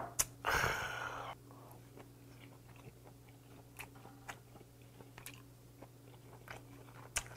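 Close-miked eating sounds: a breathy exhale just after a shot of soju, then soft chewing of raw pen shell adductor with scattered small mouth and chopstick clicks, and a sharper click near the end.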